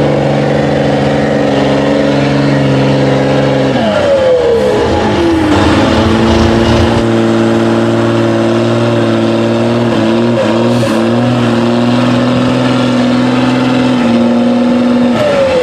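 Iveco 4x4 trial truck's diesel engine running at high revs. About four seconds in the revs fall away, then it holds steady again under load, dipping briefly a couple of times around ten seconds in. Near the end the revs drop once more.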